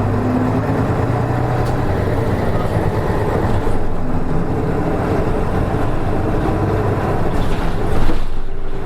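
Nissan Diesel KK-RM252GSN route bus running at a steady, unhurried pace, its diesel engine giving an even drone. About eight seconds in there is a brief louder swell, after which the higher part of the sound briefly drops away.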